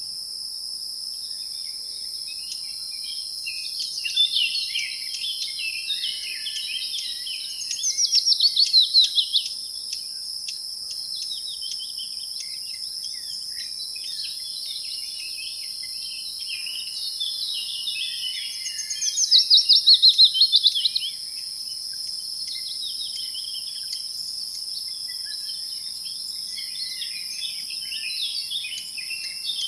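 Nature ambience of a steady high-pitched insect chorus with birds chirping. Twice, about eight seconds and twenty seconds in, a bird gives a loud, rapid trill that falls in pitch.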